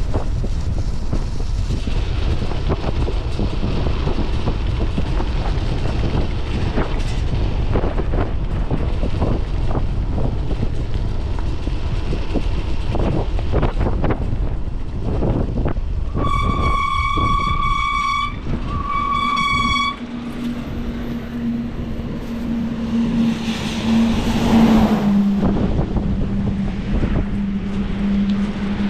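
Wind buffeting the bike-mounted camera's microphone during a downhill ride, with two long high-pitched toots a little past halfway. After that the wind noise drops and a steady low hum carries on.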